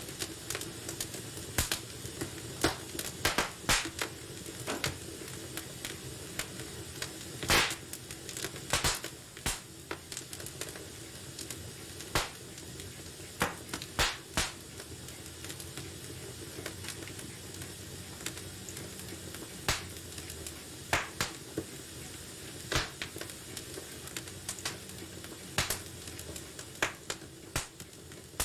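Wood fire in a fireplace crackling, with a steady soft hiss and irregular sharp pops and snaps, the loudest about seven seconds in.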